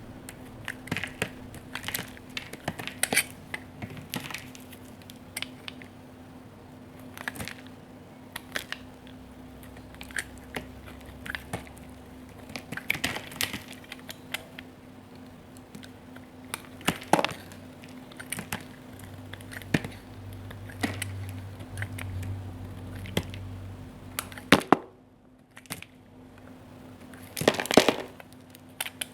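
Knife cutting into a bar of soap: irregular crisp cracks and crunches as the blade passes through and soap cubes break off. There is a brief quiet gap near the end, then a quick cluster of louder crunches. A faint steady hum sits underneath.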